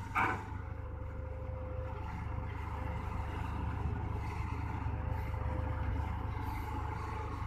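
Heavy diesel machinery running steadily, a low continuous hum: a hydraulic excavator working as it loads a dump truck.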